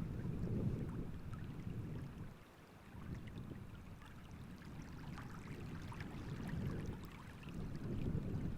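Wind gusting over open water: a low rumble on the microphones that swells and eases, dropping away briefly about two and a half seconds in. Faint small ticking splashes of wavelets at the water's edge sit under it.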